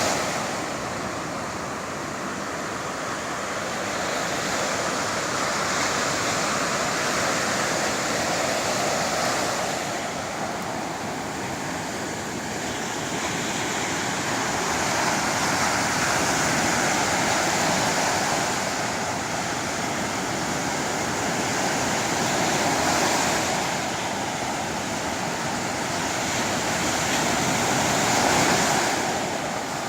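Sea waves breaking on the shore: a continuous rush of surf that swells and eases, with louder surges every five to seven seconds.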